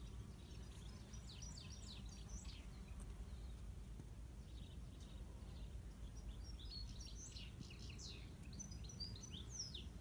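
Faint bird chirping over a low steady rumble. There are two runs of quick, high chirps: one about a second in and another from about six and a half seconds to near the end.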